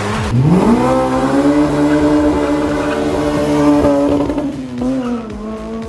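Honda Civic FD's swapped K20A2 four-cylinder engine, breathing through Skunk2 headers and a full Invidia exhaust with a Speedfactory muffler, revs up sharply about half a second in and is held high and steady for several seconds as the car drives by. Its note dips slightly near the end.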